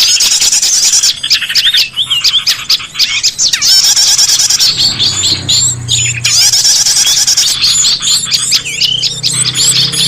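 Dense chorus of small songbirds, rapid high chirps and trills overlapping one another: a bird-lure recording for calling in small birds.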